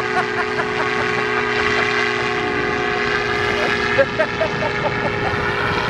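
Propeller engine of a winged flying boat running at steady high power, a constant even-pitched drone.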